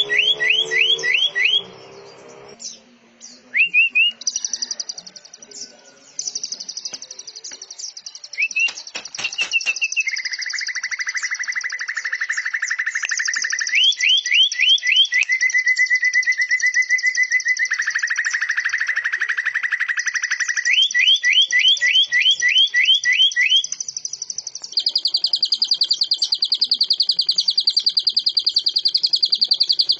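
Cage-bird song for training birds: fast, very even trills and runs of repeated rising chirps, cutting abruptly from one phrase to the next as in an edited track. The song mixes a greater green leafbird singing in canary style with cililin and lovebird rapid trills.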